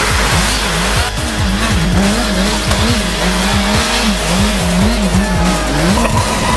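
Motorbike engine revving up and down over and over, rising and falling in quick succession, with tyre noise as the bike drifts on ice.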